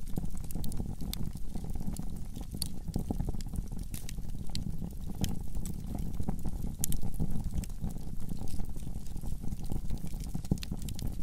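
Wood fire burning in a fireplace: a steady low rumble of flames with irregular crackles and pops, a few of them louder snaps.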